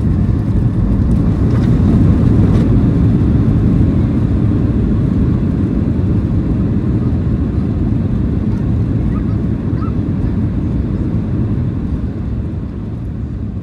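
Loud, steady low roar of a Boeing 737 heard from inside the cabin during its landing, slowly fading as the aircraft slows.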